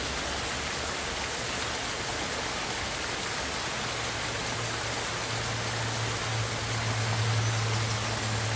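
Stream water rushing steadily. About halfway through, a low steady hum comes in and grows louder.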